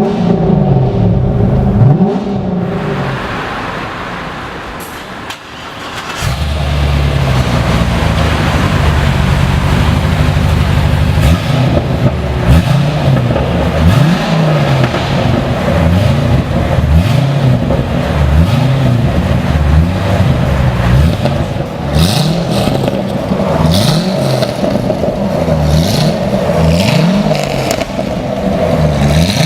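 Chevrolet Corvette 2008 6.2-litre LS3 V8 running through an aftermarket front-pipe exhaust. Its engine speed rises and drops again and again. It eases off and goes quieter for a few seconds near the start, then pulls loudly again.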